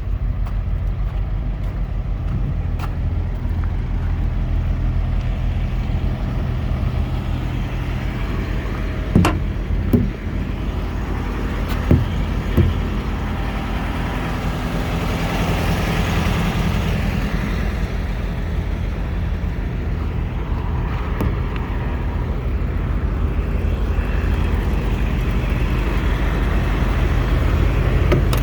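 Semi-truck's diesel engine idling steadily, with four short sharp knocks about a third of the way in.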